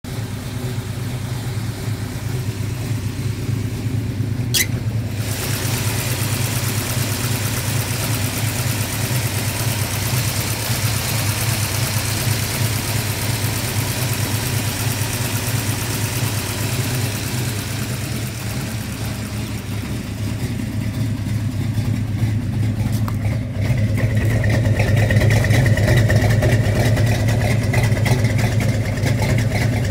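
A Ford 331 cubic-inch stroker small-block V8 in a 1965 Mustang idling steadily, with one brief click about four and a half seconds in. It gets louder a little over two-thirds of the way through, when heard at the twin exhaust tips.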